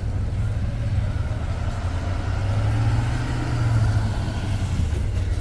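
A vehicle engine running at low speed with a steady low hum that swells slightly about three to four seconds in.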